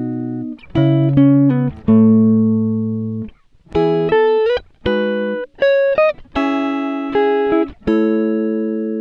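Background music: a plucked guitar playing single notes and chords, each struck and left to ring out and fade, with a few short slides between notes.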